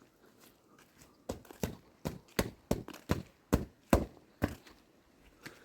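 A run of about a dozen sharp knocks, roughly three a second and unevenly spaced, lasting about three seconds.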